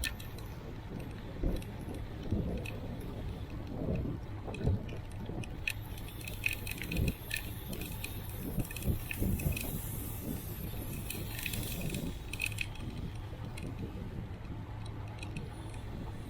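Bicycle ride sound: a steady low rumble of wind and road under irregular metallic rattling and jingling clicks from the bike as it rolls over the pavement.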